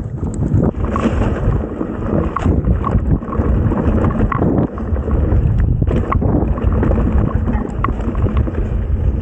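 Mountain bike descending a rough dirt trail: wind buffeting the camera microphone over the rumble of tyres on dirt and stones, with frequent short rattles and knocks from the bike.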